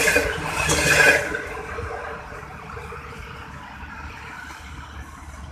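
Passenger coaches of an express train rushing past on the rails, wheels clattering over the track, until the last coach clears about a second in. The sound of the departing train then fades to a low rumble.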